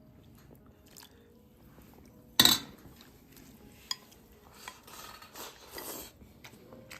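Tableware clinking as oyster mushroom soup is served into a big bowl: one sharp clink of a spoon against a bowl about two and a half seconds in, then softer scraping and a few light clinks.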